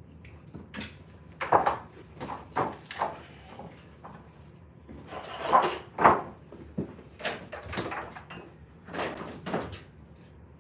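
Irregular wooden knocks and thuds, a few sharp and loud, as lumber is handled and set in place during framing work.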